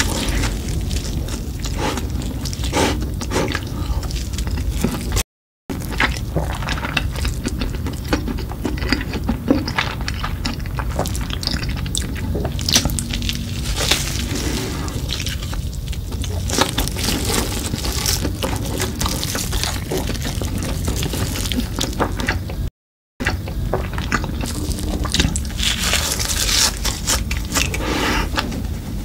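Close-miked chewing of a cheese stick with a red crumb coating: wet squishing and smacking mixed with small crunchy clicks. The audio drops out briefly twice, about five seconds in and again near the twenty-three-second mark.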